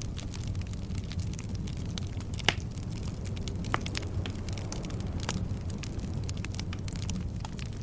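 Wood fire burning in a fireplace: a steady low rumble of flames with frequent crackles and sharp pops from the burning logs, the loudest pop about two and a half seconds in.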